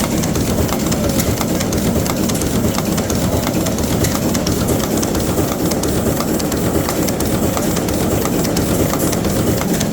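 Washington six-cylinder inline marine diesel engine running steadily, with a rapid, even diesel clatter of sharp knocks over a low rumble.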